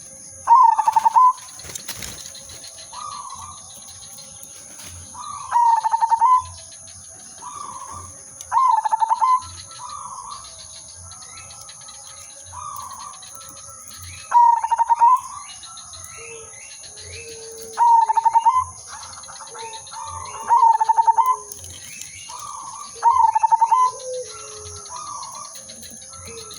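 Zebra dove (perkutut) singing: loud, rapidly stuttering coo phrases repeated every few seconds, with softer coos in between.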